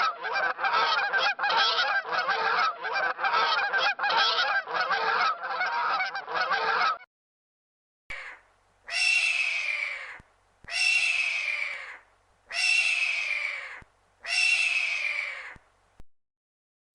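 Birds honking: a fast run of short honks for about seven seconds, then, after a brief pause, four long honks spaced about a second and a half apart, each falling in pitch.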